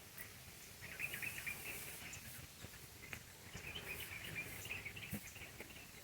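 Faint outdoor ambience with two spells of rapid, high-pitched chirping, one about a second in and another past the middle, over a low background hiss.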